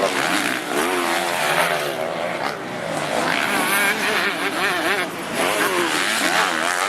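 Several motocross motorcycle engines revving during a race, their pitches overlapping and rising and falling constantly with the throttle.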